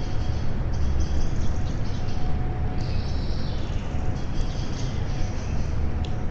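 Songbirds singing thin, high phrases, one with a falling whistle about three seconds in, over a steady low rumble.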